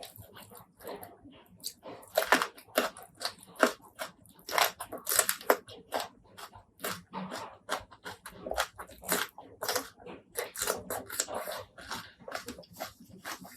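Close-miked eating: a fast, irregular run of sharp crunches from bites and chewing, loudest from about two seconds in.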